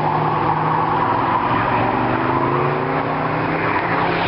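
Car engine running at a steady low note, with a second engine note slowly rising in pitch through the middle.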